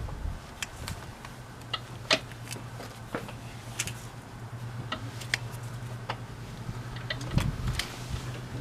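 Irregular metallic clicks and knocks from a VW Type 4 engine's crankshaft being worked back and forth by hand, over a steady low hum. The knocking is the crank shifting in the block: excessive crankshaft end play, which the owner hopes to shim.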